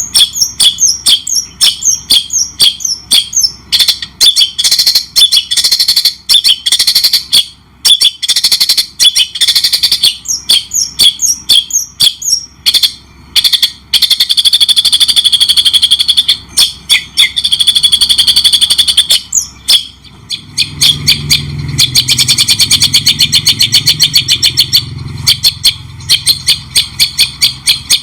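Loud songbird song: rapid runs of sharp repeated chirps broken by longer trills, played as a masteran recording for training caged songbirds. A low hum joins about three-quarters of the way through.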